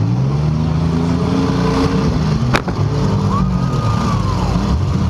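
Several compact demolition-derby cars' engines revving and running at the same time, with one sharp bang about halfway through and a brief high whine that rises and falls just after.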